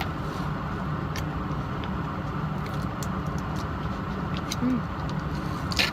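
Steady low rumble inside a parked Dodge truck's cabin, with a few faint clicks.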